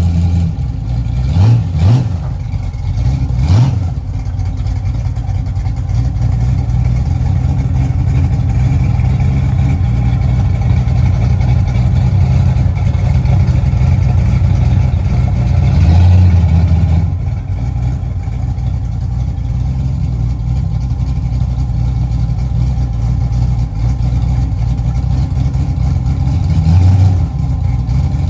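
LS-swapped 1997 Chevy S10's 5.3L iron-block V8 running, with three quick throttle blips in the first few seconds and two more short revs, about halfway and near the end.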